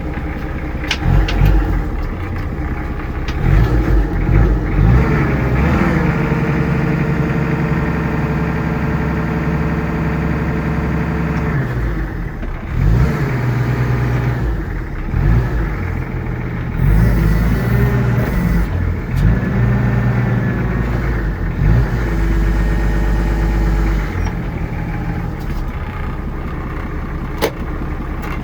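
Mitsubishi FD35 forklift's diesel engine running. It is revved up and held several times, falling back to a lower speed in between.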